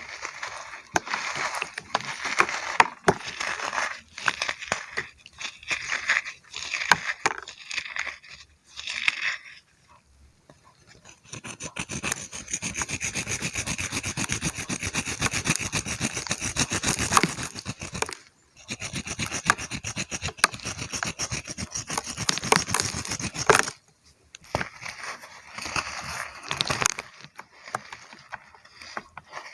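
Brittle chunks crunching and crumbling as they are crushed, a dense crackling and scraping that goes on in long stretches broken by a few short pauses.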